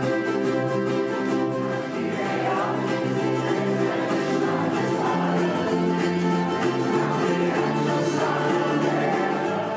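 Live acoustic music from a community group: instruments and voices with long held notes at a steady level.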